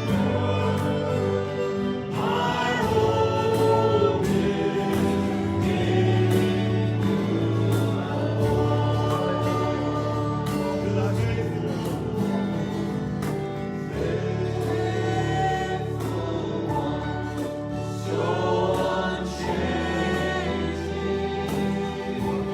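Church worship music: voices singing over a band, with a steady beat.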